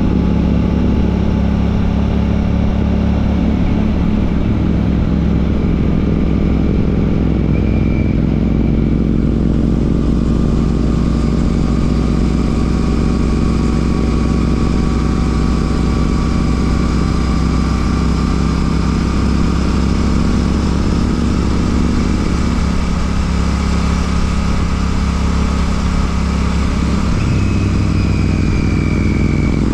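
Royal Enfield Classic 650's 648 cc parallel-twin engine running through an aftermarket Ngage exhaust while riding, with a steady exhaust note and a change in the engine note near the end.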